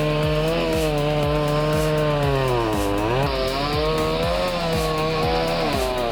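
Chainsaw running at high speed while cutting. Its engine note sags under load about three seconds in, then picks back up. Background music with a steady beat plays under it.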